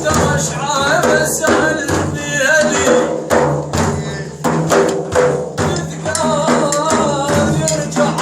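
A man singing a religious praise song (madih) in long, ornamented melodic lines over hand percussion beating steadily and a steady low drone.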